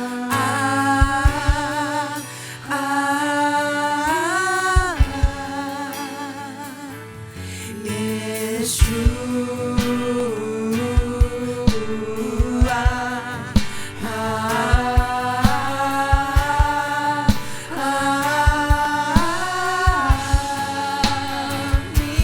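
Christian worship music: a voice singing long held notes with vibrato over a steady kick-drum beat.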